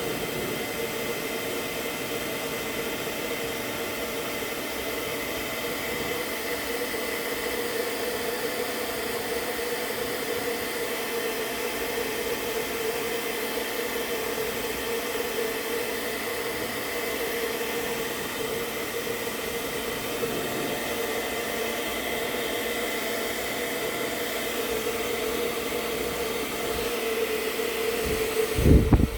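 Handheld hot-air blower running steadily with a whine, blowing across poured epoxy resin to push it into ocean-wave lacing. It stops near the end with a loud knock.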